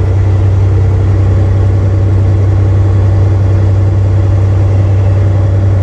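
Semi truck's diesel engine running steadily with a deep, even drone.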